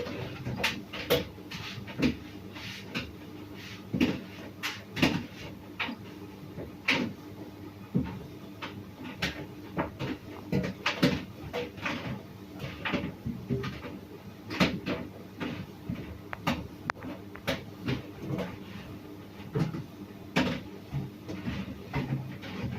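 Tricity Bendix TM220W tumble dryer running: a steady motor hum with irregular knocks and clicks, one or two a second, as the drum turns.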